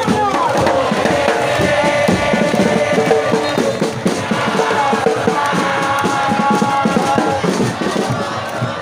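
A large crowd of football supporters singing a chant together in the stands, backed by steady, rapid drumming.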